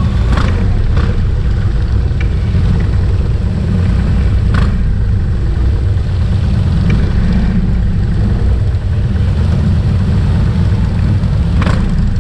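Motorcycle engines making a steady, loud low rumble, broken by a few brief sharp sounds.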